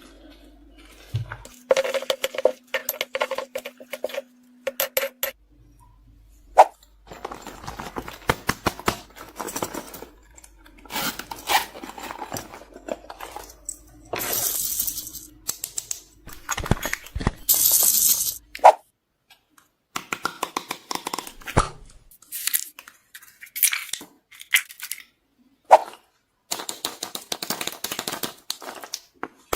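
Small hard plastic pieces such as beads, toy parts and makeup cases clicking and clinking as they are handled and dropped into slime, with short bursts of crackling and rustling in between.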